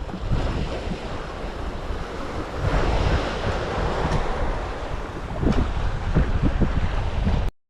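Sea surf washing, with a light wind buffeting the microphone in low gusts; the sound cuts off abruptly near the end.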